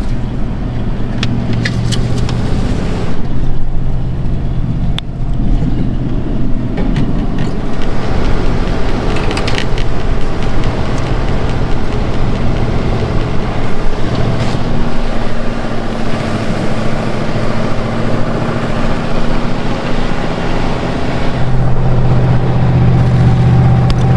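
Ford F-150 pickup's engine running as the truck drives off-road, its note shifting and getting louder near the end, with scattered clicks and knocks in the first half.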